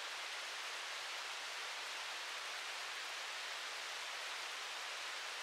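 Steady hiss of falling rain, an even wash of sound with no single drops standing out.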